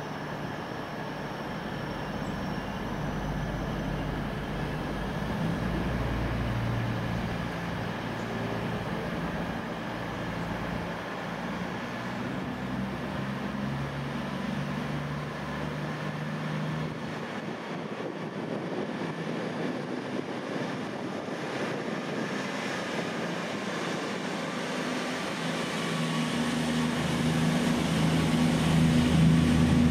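A train's steady engine drone at the station, growing louder near the end.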